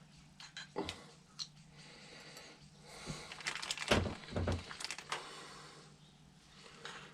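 Small metal carburetor parts and hand tools handled on a workbench: scattered clicks and taps, with a busier run of knocks and rattles about halfway through, over a faint steady low hum.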